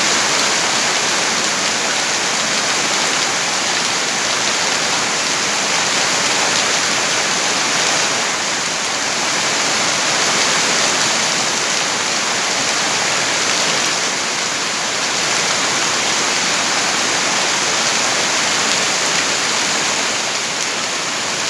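Steady heavy rain falling, a continuous dense hiss with no separate drops standing out.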